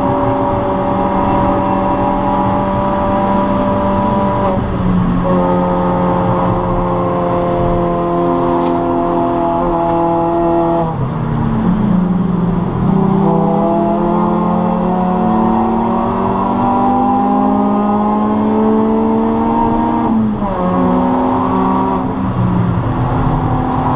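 Suzuki Swift Sport's four-cylinder engine under hard acceleration, heard from inside the cabin: the pitch climbs through the revs, drops sharply at an upshift about four seconds in, climbs again, dips and rises around the middle, and drops at another upshift near the end.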